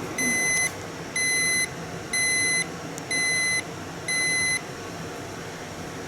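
Electronic kitchen appliance beeper sounding five times, evenly spaced about a second apart, each beep about half a second long, over a steady hiss.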